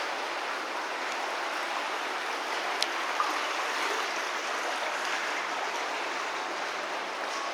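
Steady rush of flowing water, with a couple of faint clicks about three seconds in.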